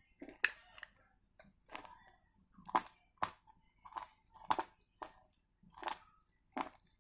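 Pieces of dry baked clay being crunched: a dozen or so sharp, irregular crunches and cracks.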